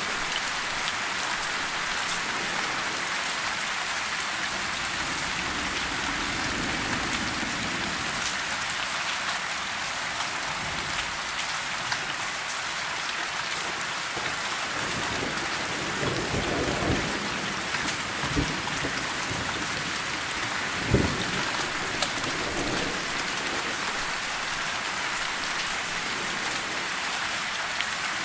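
Steady rain, a continuous even hiss. In the second half there are a few short, soft low thumps; the strongest comes about three-quarters of the way through.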